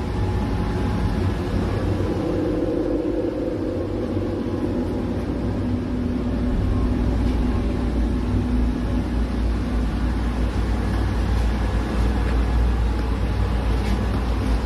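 Roomba robot vacuum running: a steady motor hum over a low rumble.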